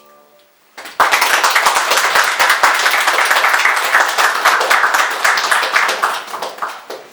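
Audience applauding, breaking out about a second in and dying away near the end, with the last piano notes fading out just before.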